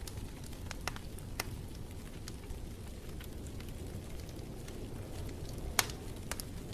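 Wood fire crackling in a fireplace: scattered sharp pops and snaps over a steady low rumble, with the loudest pop a little before six seconds in.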